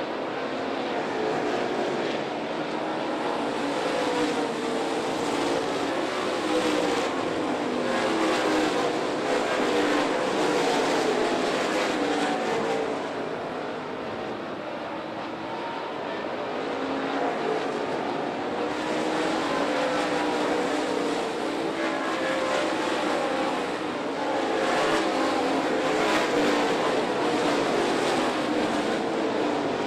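Dirt late model race cars' V8 engines running at racing speed as the field circles the track. Several engines' pitch rises and falls together, and the sound swells and fades in waves every few seconds as cars pass.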